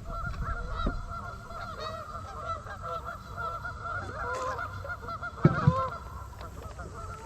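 A flock of waterfowl calling continuously, with many short calls overlapping. Two low thumps come a little over five seconds in.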